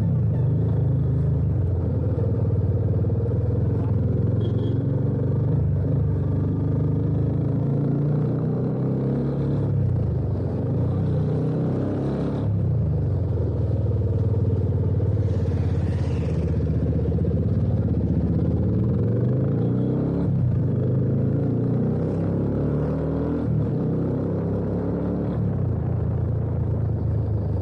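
Yamaha FZ25's 249 cc single-cylinder engine running through an aftermarket slip-on exhaust while the motorcycle is ridden, a steady deep exhaust note that rises and falls a little in pitch with throttle changes.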